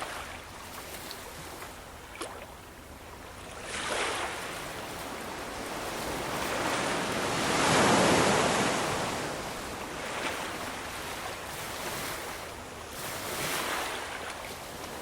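Ocean surf: waves washing in and out, the largest swelling to a peak about halfway through, with smaller ones around a quarter in and near the end.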